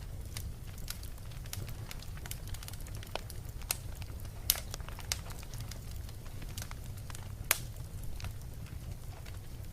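Wood fire crackling in a fireplace: irregular sharp pops over a steady low rumble, the two loudest pops about four and a half and seven and a half seconds in.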